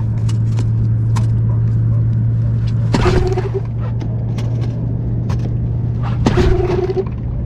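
Boat outboard motor running with a steady low hum, with two brief higher-pitched surges about three and six seconds in, after its fuel line was primed with the primer bulb to clear air from the line. The trouble is a faulty fuel-line primer bulb.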